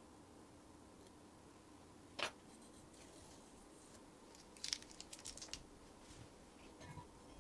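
Small hard clicks and taps from something being handled: one sharp click about two seconds in, then a quick run of light clicks a little past halfway, over a faint steady hum.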